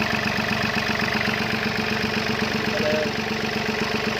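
Excavator diesel engine running at a steady idle with a fast, even beat.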